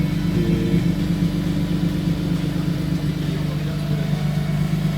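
Toyota Zero Crown's engine idling steadily through an HKS Super Sound Master aftermarket muffler, a low, even exhaust hum with no revving.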